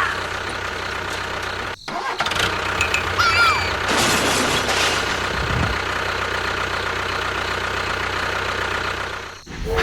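A vehicle engine running steadily. It cuts out briefly just under two seconds in, and there is a short burst of hiss about four seconds in.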